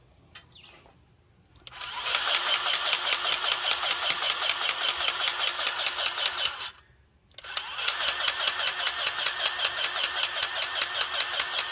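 Powered grease gun running in two bursts of about five seconds each, with a short pause between them. It is a busy motor-and-pump noise with an even, rapid pulse. The grease tube is running out, which the user reads from the plunger stem sitting all the way in.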